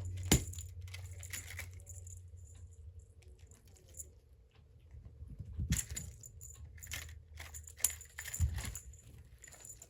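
A wand cat toy being waved and batted at during play, making light scattered rattles and clicks, with a sharp click early and two soft thumps, one about halfway through and one near the end.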